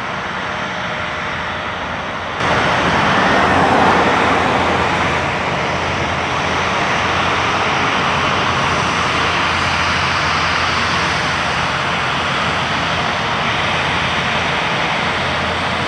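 Jet airliner engine noise, a steady rushing with a low hum, stepping up suddenly about two and a half seconds in, swelling briefly, then holding steady.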